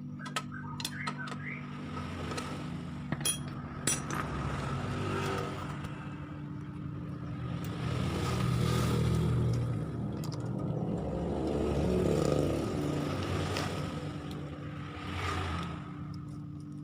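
Motor vehicle engine noise swelling and fading about three times over a steady hum, with a few sharp clicks about three to four seconds in.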